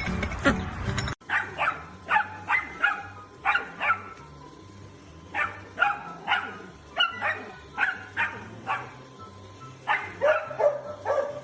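A dog barking in short, sharp barks, several in quick succession and then a pause, again and again. A louder rush of noise from the previous clip cuts off about a second in.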